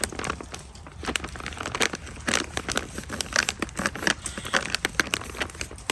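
Foil-lined freeze-dried meal pouch crinkling and crackling as it is handled after being filled with hot water and sealed, with many irregular sharp crinkles.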